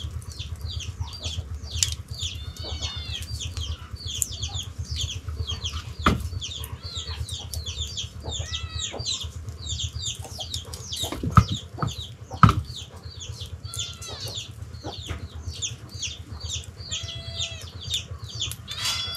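Many birds chirping rapidly and calling throughout, with a few louder sharp knocks, two of them close together just past the middle, over a steady low hum.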